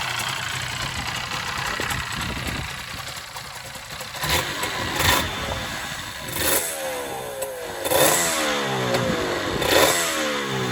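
Kawasaki KR1's 250cc two-stroke parallel-twin engine ticking over, then blipped about five times in the second half, the revs falling back after each blip.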